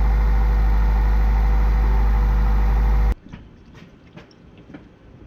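Car engine idling, loud and steady with a deep rumble, heard from underneath the car, run after a radiator replacement to check for coolant leaks. It cuts off abruptly about three seconds in, followed by a faint trickle and light ticks of motor oil being poured through a funnel.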